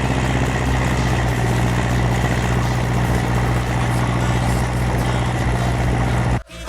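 Ursus C-360 tractor's four-cylinder diesel engine running at a steady speed, a low, even hum that cuts off suddenly near the end.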